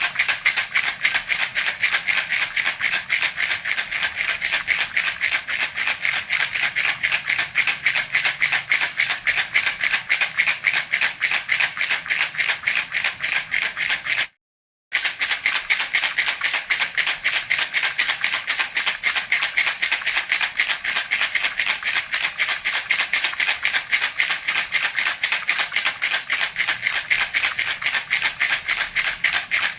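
Baby rattle (jhunjhuna) shaken steadily in a fast, even rhythm, its beads rattling crisply. The sound cuts out completely for about half a second midway, then resumes.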